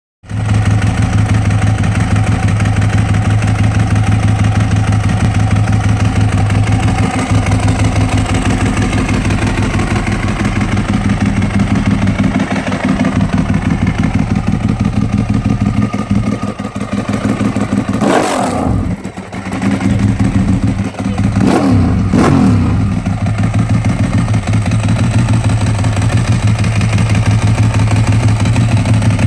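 Ducati 1098 L-twin motorcycle engine idling through a Scorpion Red Power aftermarket exhaust with a steady, loud pulsing note. A few throttle blips over the second half make the pitch rise and fall.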